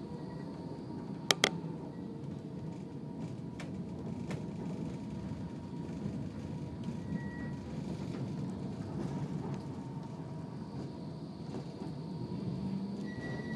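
Tram running with a steady low rumble, with two sharp clicks close together about a second and a half in and a few fainter clicks later.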